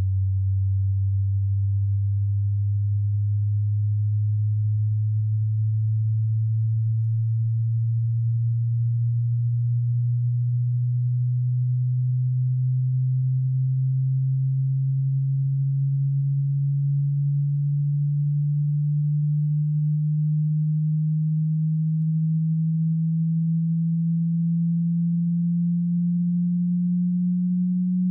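A single pure sine tone, low and steady in loudness, gliding slowly and evenly upward in pitch from about 95 Hz to about 190 Hz, roughly an octave over half a minute.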